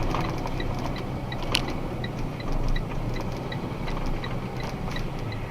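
Box truck running down the road: steady low engine and road rumble, with a faint light ticking about three times a second and one sharper click about one and a half seconds in.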